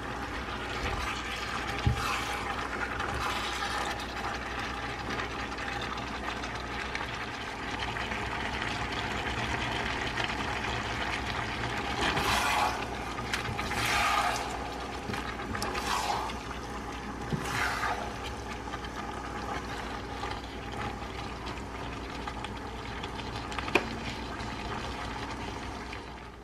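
Beef stir-fry with vegetables sizzling in a hot pan: a steady hiss, with several louder surges around the middle.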